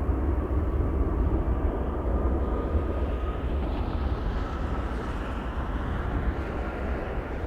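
Jet airliner's engines running, a faint whine slowly rising in pitch over a steady rumble, with wind buffeting the microphone low down.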